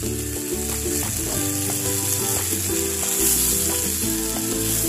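Anchovies and vegetables sizzling in a wok as they are stirred with a spatula, over background music with sustained low notes.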